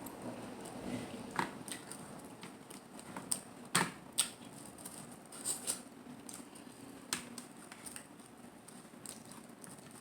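Close-miked eating sounds of a seafood meal: irregular wet mouth clicks and smacks while chewing, the loudest a few close together about four seconds in.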